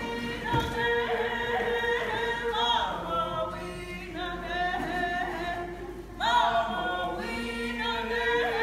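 A group of voices singing together without instruments, a protocol song with long held notes and swooping rises and falls in pitch.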